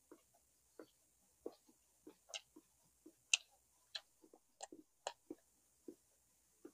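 Close-up eating sounds of braised pork leg being chewed: irregular wet mouth clicks and smacks, about three a second.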